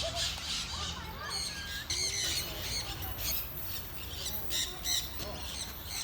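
Parrots squawking and chattering, many short harsh calls overlapping throughout.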